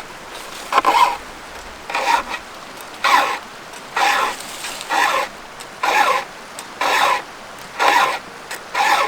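Round file rasping across a chainsaw chain's cutter teeth in steady, even strokes, about one a second.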